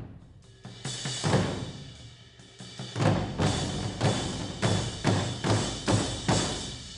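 Drums struck hard in a live music performance: about ten heavy strokes in an uneven rhythm, with a short lull about two seconds in.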